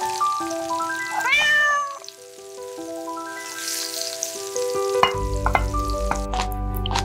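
Background piano music with a kitten's meow about a second in, over a sizzling hiss. A low steady hum comes in about five seconds in.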